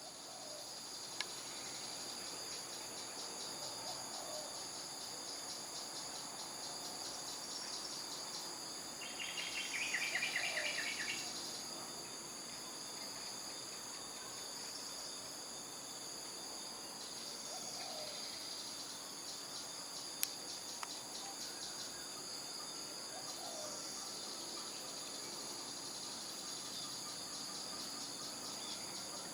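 Steady outdoor insect chorus of crickets and cicadas, a high pulsing buzz, with a louder rapid pulsing buzz about ten seconds in. Faint short bird calls come every few seconds.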